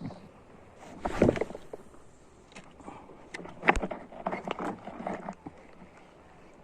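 Irregular knocks and clicks on a small fishing boat as a hooked fish is brought in, with one louder cluster about a second in and a busier run of knocks in the middle.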